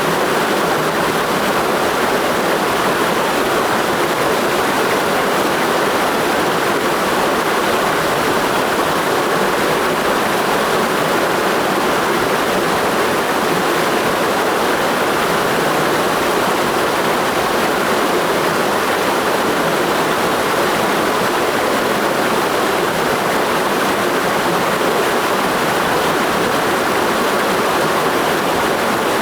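Mountain stream rushing over rocks, a steady, unbroken roar of water.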